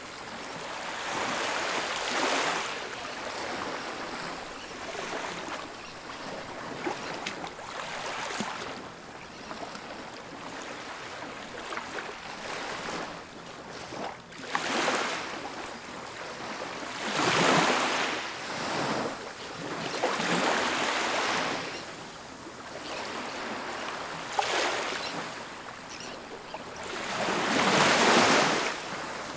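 Ocean waves breaking and washing onto a beach, the surf swelling and falling back every few seconds, with the loudest surge near the end.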